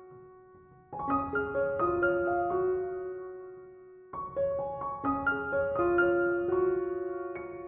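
Slow, gentle piano music: phrases of a few notes left to ring and fade away, a new phrase starting about a second in and another about four seconds in.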